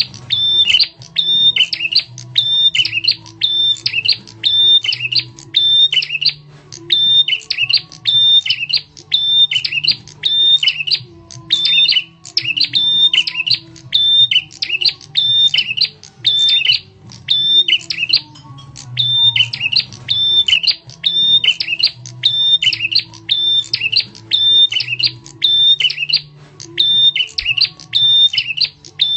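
Prenjak tamu, a prinia, giving its loud, sharp call over and over, about two calls a second without pause, over a low steady hum. This is a lure call that draws other birds in.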